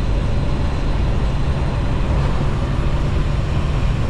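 Steady cab noise of a moving semi-truck: a low engine and road drone with wind noise coming in around the doors, which the driver puts down to door seals that are not the best.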